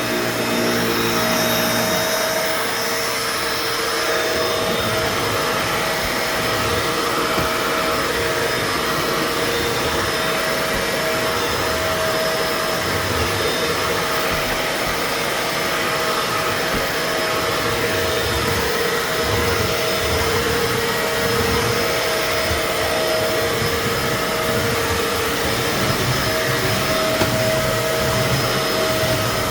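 Bissell Pet Hair Eraser Turbo upright vacuum running steadily and loudly, a whistling whine riding on the motor noise and coming and going as it is pushed over the carpet.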